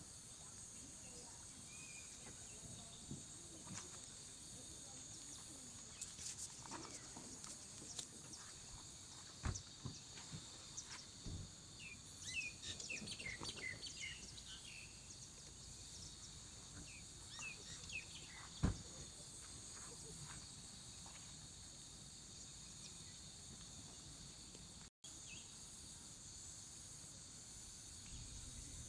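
Faint, steady chorus of insects, with a flurry of short bird chirps about halfway through and a few scattered knocks.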